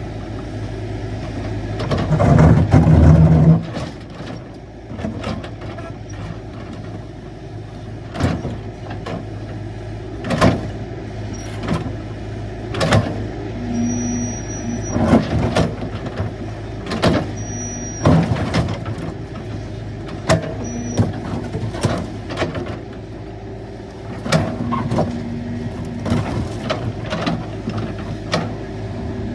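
Caterpillar 312 hydraulic excavator working, its diesel engine running steadily with a loud surge about two seconds in. Repeated sharp clanks and knocks from the machine come throughout, with a few brief high whines.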